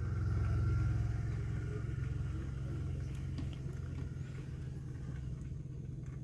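Maruti Suzuki Baleno's petrol engine idling with the car stopped, heard from inside the cabin as a steady low hum.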